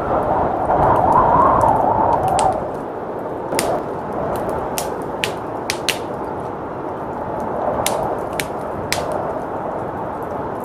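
Wood fire crackling with irregular sharp pops over the steady rush of blizzard wind. The wind swells in a gust during the first couple of seconds.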